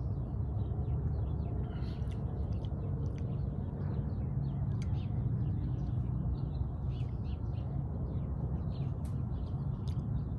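Birds chirping on and off over a steady low rumble.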